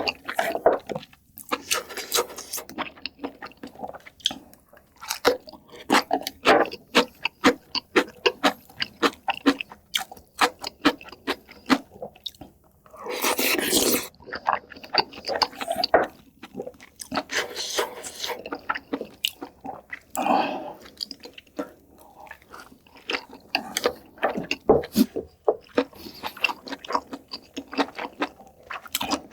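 Close-miked eating: a person chewing soup with rice, meat and spicy kimchi, with crunching and wet mouth clicks in quick runs, and a louder noisy stretch of about a second near the middle.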